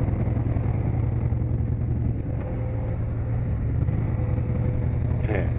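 Vehicle engine running with a steady low drone as the vehicle drives, heard from inside.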